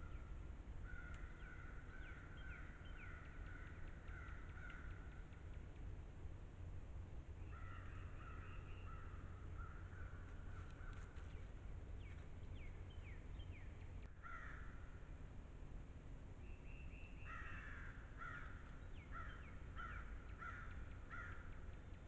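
Birds calling faintly in about four bouts of quick repeated notes, over a steady low rumble.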